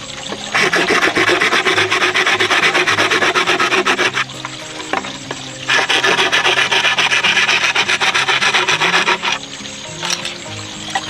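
Rapid rasping scrape, stroke after stroke, in two stretches of about four seconds each.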